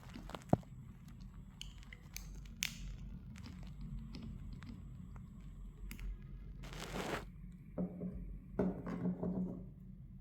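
Small handling noises from work on a smartphone being repaired: a sharp tick about half a second in, then scattered light clicks, scrapes and crinkling, with a longer scraping stretch near the end.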